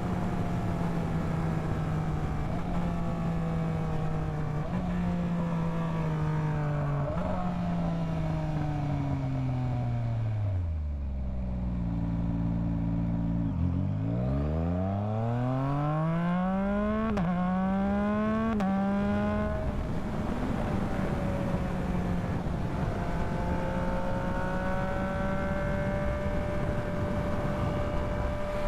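Yamaha MT-09 inline-triple engine slowing with several downshifts to a brief idle, then pulling away hard about fourteen seconds in and rising in pitch through a few quick upshifts before settling into a steady cruise. Wind and road noise run underneath.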